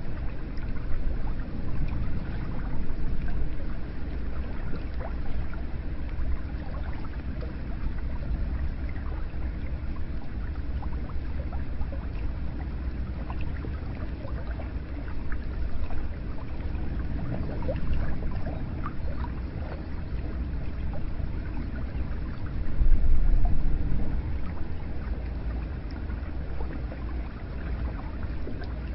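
Hot-spring water pouring and gurgling steadily, with small drips and splashes throughout; the flow swells louder for a couple of seconds about three quarters of the way through.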